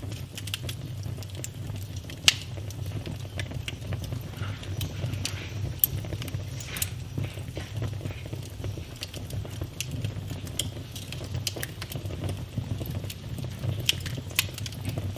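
Wood fire burning in a fireplace, crackling with scattered sharp pops over a steady low rumble; the loudest pop comes about two seconds in.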